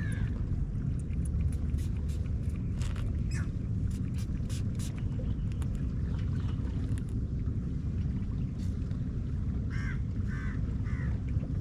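Outdoor dawn ambience: a steady low rumble with short bird chirps scattered through the first half and three quick bird calls about ten seconds in.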